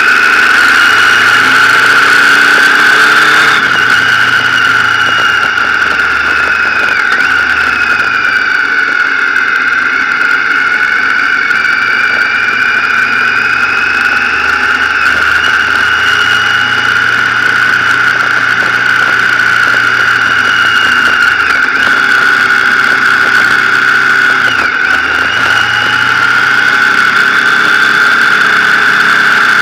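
Motorcycle engine running under way, its pitch climbing slowly and dropping sharply several times, over a steady high-pitched whine.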